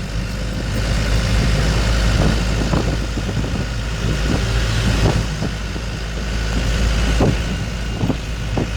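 Dump truck's diesel engine running with a steady low rumble, with a few short knocks scattered through it.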